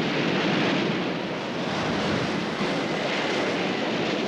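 Stormy sea: a loud, steady rush of wind and breaking waves.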